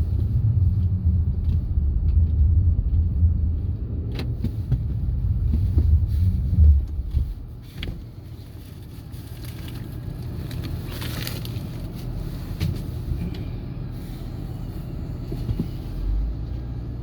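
Low rumble of a car on the road, loud for the first seven seconds or so and then dropping much quieter.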